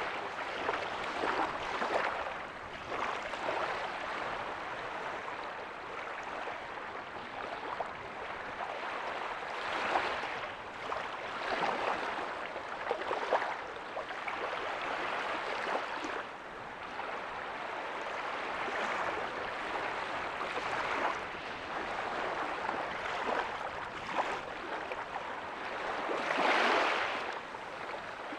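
Small ocean waves breaking and washing up a beach, a steady wash of surf that swells and fades every few seconds, with one fuller surge near the end.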